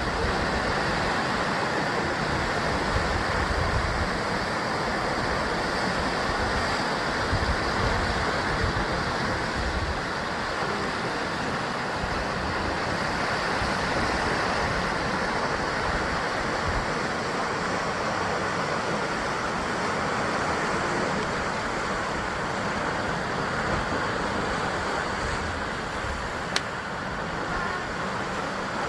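Sea surf breaking and washing continuously against a rocky basalt coastline, a dense steady rush that swells and ebbs gently. One sharp click near the end.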